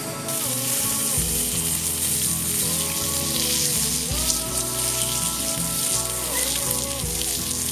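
Food frying in a hot pan, a steady sizzle that starts just after the beginning and cuts off abruptly at the end, with background music underneath.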